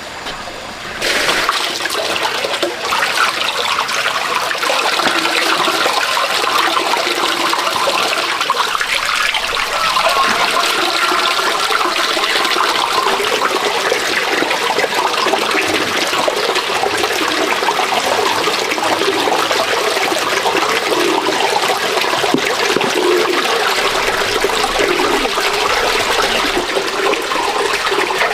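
Water pouring and splashing steadily, starting suddenly about a second in.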